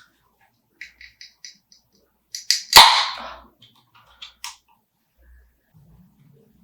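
A beer being opened: one sharp crack about three seconds in, followed by a short fizzing hiss that fades. Light clicks and taps of handling come before and after it.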